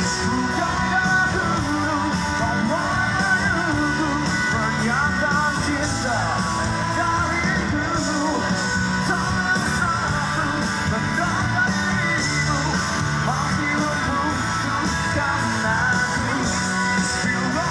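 Live rock band performing, with singing over electric guitar.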